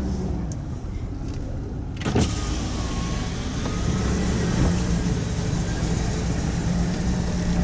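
Chevrolet Silverado 2500HD pickup running, heard from inside the cab as a steady low hum. About two seconds in there is a short knock, and after it the sound is brighter and noisier, with a faint high whine.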